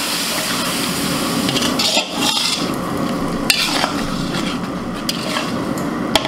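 Onion and chili-turmeric masala sizzling in a metal wok with water just added, while a flat metal spatula stirs and scrapes the pan, with a few sharp clicks of the spatula against the metal.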